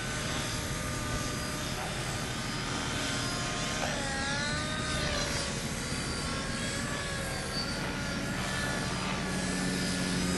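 Blade mCP X micro RC helicopter's motor and rotor whine, several tones sliding down and back up as the throttle and pitch change, with a sharp dip and rise about four seconds in. Wind rumbles on the microphone.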